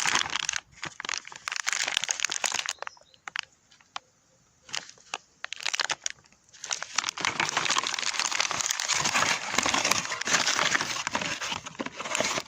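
Packaging crinkling and rustling as new steering tie rod ends are handled, with scattered small clicks. It goes quieter for a few seconds in the middle, then the crinkling resumes.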